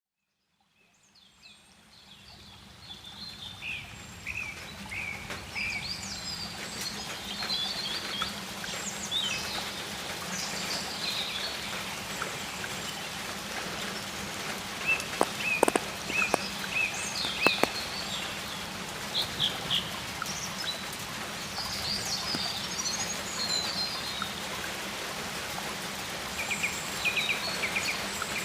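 Outdoor ambience of songbirds chirping and calling over a steady hiss of water, fading in over the first couple of seconds. A few sudden, louder sharp sounds come in the middle.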